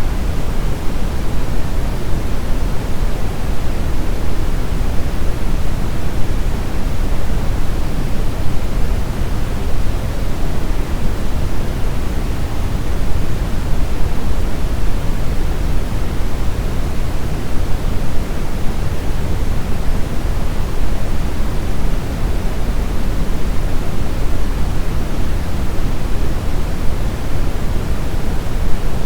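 Brown noise: a steady, even rushing hiss, strongest in the deep low end and falling away toward the highs, with no changes or events.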